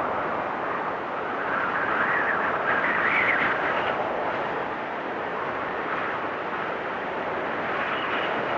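Blizzard wind blowing and gusting steadily, with a whistling tone that wanders up and down and swells around three seconds in.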